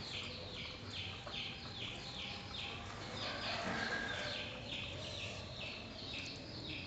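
A bird calling over and over: short, high, falling chirps about twice a second.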